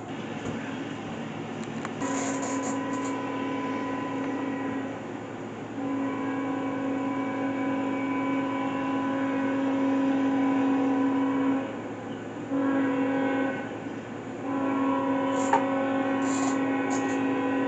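Locomotive air horn sounding the grade-crossing signal: two long blasts, a short one, then a long one held to the end.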